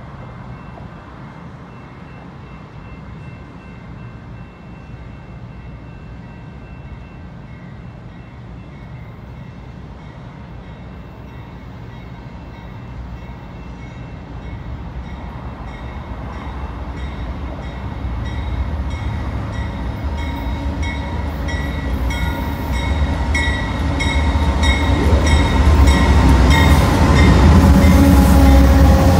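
BNSF freight train's diesel locomotives approaching and passing close by. The engine rumble and wheel noise grow steadily louder from about halfway through and are loudest near the end as the lead units go by.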